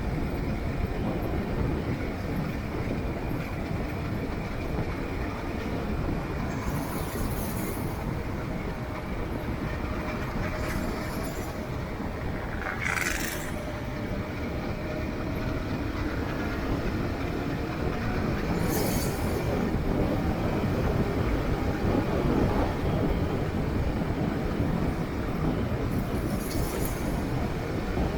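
Steady rumble and rushing noise of a vehicle on the move, engine, road and wind together, with a few short hissing sounds and a brief higher-pitched sound about halfway through.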